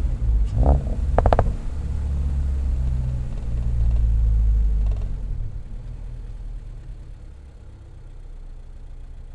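2022 Subaru BRZ's 2.4-litre flat-four with an equal-length header, catless front pipe and MRT axle-back muffler, a deep exhaust rumble that builds to about five seconds in, then fades to a quieter drone as the car comes off the throttle. Two brief sharp sounds stand out about half a second and a second and a half in.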